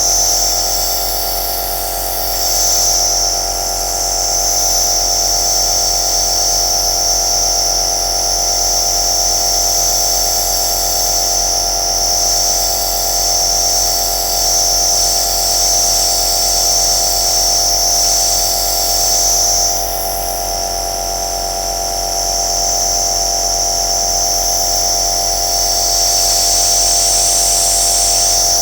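Aerosol nebuliser machine running steadily: a constant motor hum under a strong high hiss of air and mist. The hiss eases briefly about two seconds in and again for several seconds past the middle.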